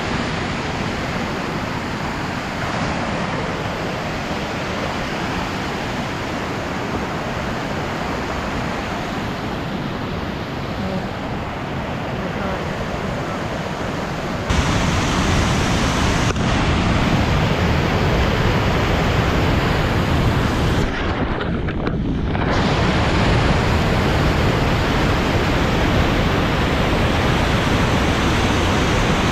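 Whitewater of the Maligne River rushing through the canyon gorge: a loud, steady rush that suddenly grows louder and deeper about halfway through.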